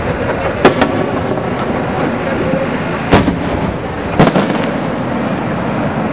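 Aerial fireworks exploding in sharp bangs: a quick pair less than a second in, a single loud burst about three seconds in, and another quick pair just after four seconds, over steady background noise.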